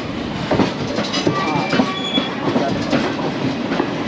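Indian Railways passenger coaches running past on the adjacent track, heard through an open barred coach window: a steady rumble of wheels on rail with rapid clicks over the joints. A few brief high wheel squeals come through in the middle.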